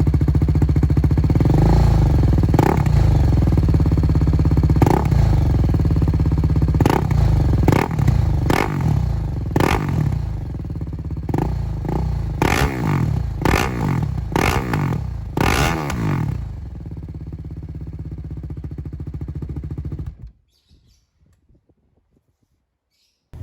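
BMW G 310 GS single-cylinder engine through a Leo Vince LV One Evo full-system exhaust, baffle fitted. It is blipped about a dozen times in quick succession, then settles to idle, and the sound stops abruptly about twenty seconds in.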